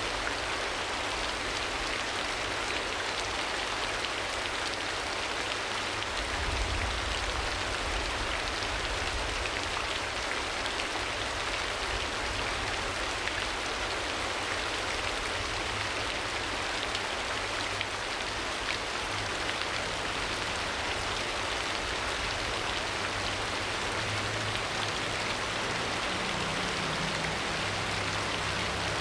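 Steady rain falling, a dense, even hiss, with a brief low rumble about six seconds in.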